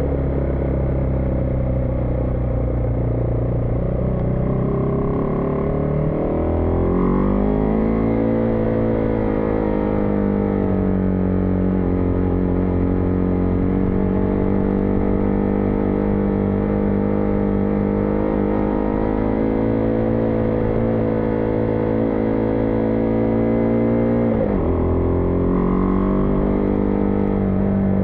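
Single-cylinder engine of a 2022 Husqvarna Vitpilen 401 motorcycle, heard from the rider's helmet. It runs low at first, climbs in pitch as the bike pulls away about six seconds in, then holds a steady note while cruising. Near the end it dips briefly and picks back up.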